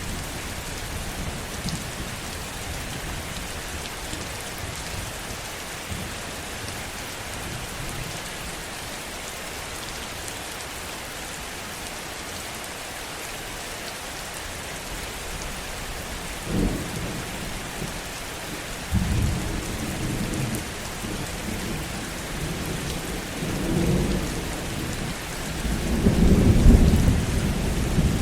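Heavy rain falling steadily with a constant hiss. In the second half, thunder rumbles in low swells, growing to the loudest roll near the end.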